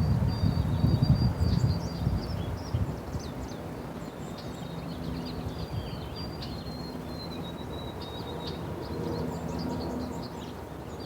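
Small birds chirping and trilling with high-pitched calls throughout, over a low rumble that fades out over the first couple of seconds.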